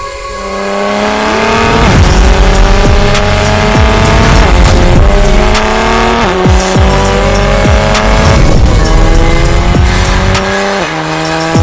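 BMW 4 Series convertible engine accelerating hard through the gears, its pitch climbing steadily and then dropping at each upshift, about every two seconds. Sharp clicks are heard here and there.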